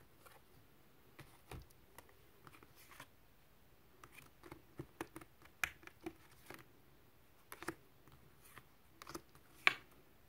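Tarot cards being handled and shuffled: scattered soft clicks and flicks of cards against each other, with a few sharper snaps later on.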